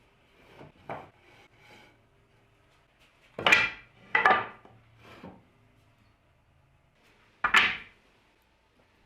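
Sharp wooden knocks and clacks of pieces of wood being handled in a workshop: a few light ones near the start, three loud ones close together in the middle, and one more near the end.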